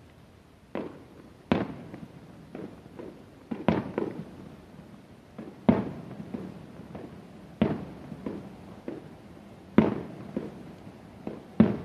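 Aerial firework shells bursting at a distance: a string of about a dozen sharp booms at uneven intervals, each trailing off, with a few much louder bangs among smaller ones.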